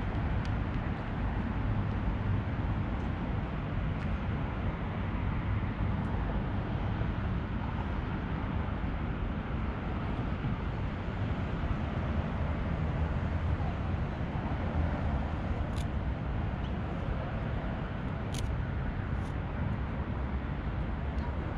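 Steady wind rush on the microphone of a camera carried on a moving bicycle, heaviest in the low end, with a few faint clicks in the second half.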